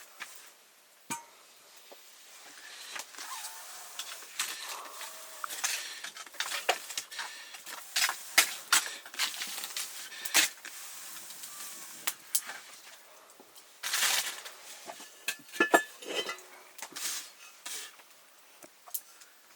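Metal pots, dishes and utensils clinking and knocking in scattered strikes while cooking.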